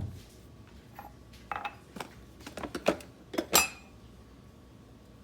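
A few short clinks and clatters of dishes and cutlery, the loudest, with a brief ring, about three and a half seconds in.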